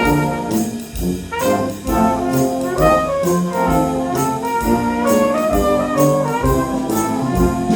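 Big band brass section of trumpets and trombones playing a jazz instrumental passage in several parts over a steady beat.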